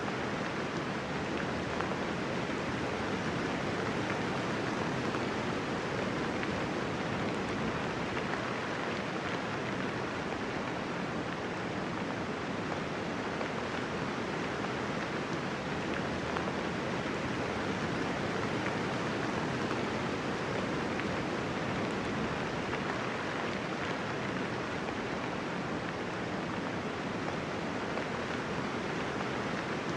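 Steady rainfall, an even hiss of many drops with no thunder.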